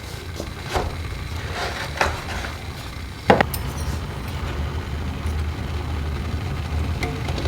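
Kitchen handling sounds: a few sharp knocks of objects set down on a work surface, the loudest about three seconds in, over a steady low rumble.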